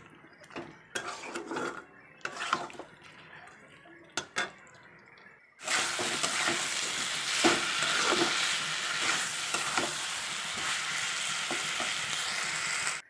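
Metal spatula scraping and stirring jackfruit and potato curry in a kadai, with scattered scrapes at first. About five seconds in, a loud steady sizzle of the masala frying in oil starts suddenly, with the stirring strokes running through it: the spices and jackfruit being dry-fried (kasha) until the oil separates.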